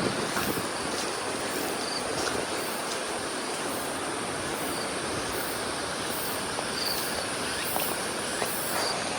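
Outdoor ambience: a steady rushing wash of noise, with a high insect chorus pulsing evenly about twice a second and a few faint short chirps.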